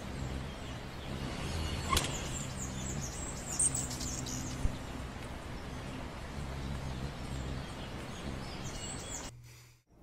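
Steady outdoor background noise with a low hum and a few short, high-pitched bird chirps; it fades out near the end.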